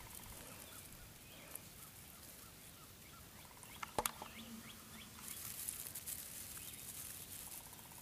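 Faint bird calls over quiet outdoor background, with faint rustling of dry grass and gravel as fingers dig at the ground. A single sharp click about four seconds in.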